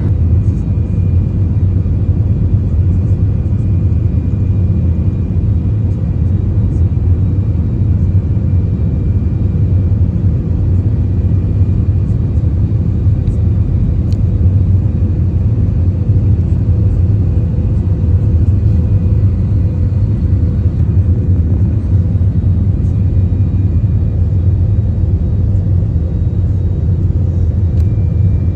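Steady low rumble of an Airbus A321-200 cabin in flight, the engine and airflow noise heard from an economy seat during the descent, with a faint steady whine above it.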